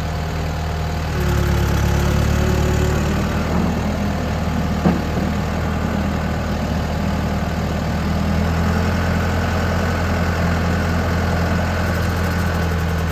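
John Deere 6415 tractor's diesel engine idling steadily. About a second in the sound grows a little louder and fuller. There is one sharp knock near five seconds.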